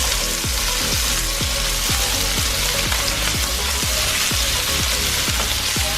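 Chicken breasts frying in olive oil in a pan, a steady sizzle, under background music with a regular bass beat.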